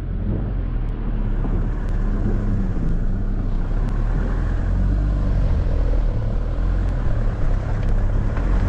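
A 4x4's engine running under load as it works through soft mud and the vehicle nearly gets stuck, with the pitch wavering a little. The tyres churn the mud.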